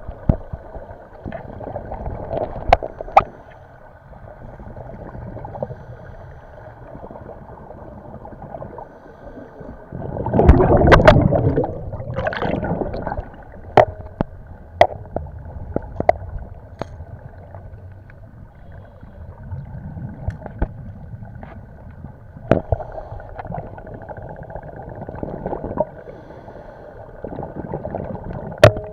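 Underwater sound on a scuba dive: a loud gush of bubbling, like exhaled regulator bubbles, about ten seconds in, over a steady faint drone with scattered sharp clicks.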